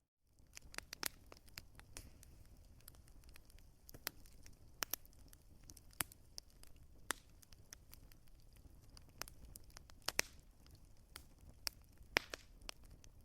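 Wood fire crackling: irregular sharp pops and snaps, a few each second, over a low steady hiss. The sound drops out for a split second at the very start.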